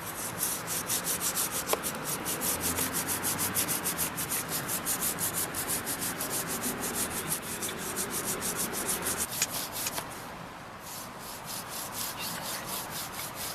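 Toothbrush scrubbing a grimy, WD-40-soaked motorcycle drive chain in fast back-and-forth strokes, about four to five a second, with a short pause about ten seconds in.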